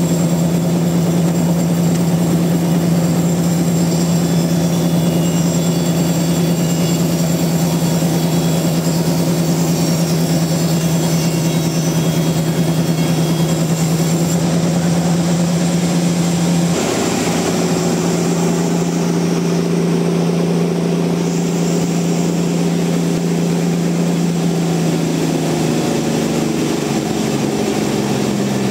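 Large sawmill machinery running: a loud, steady machine hum whose sound changes about two-thirds of the way through, then falls in pitch near the end.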